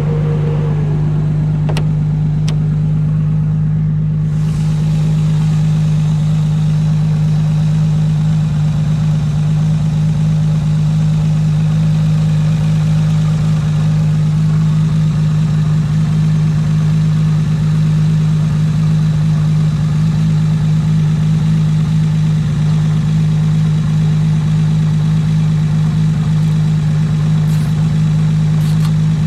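Nissan S15 drift car's engine idling, loud and steady with no revs. A steady hiss joins in about four seconds in.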